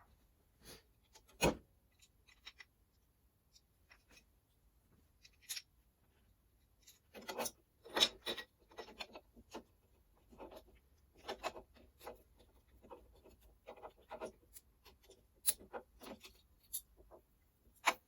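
Hand work on metal car parts: scattered clicks, knocks and scraping as parts and hand tools are handled, with one sharp knock about a second and a half in and a busier stretch of scraping and rattling in the middle.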